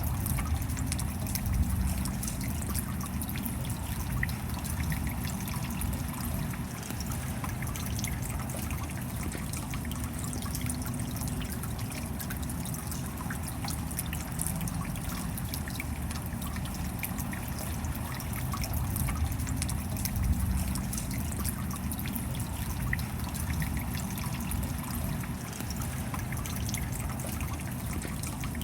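Steady rain, a dense patter of fine drops over a continuous trickle of running water.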